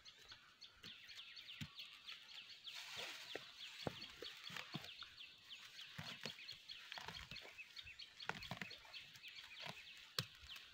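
Faint run of short, high, falling bird chirps repeating several times a second, with scattered soft knocks of a sickle digging into soil.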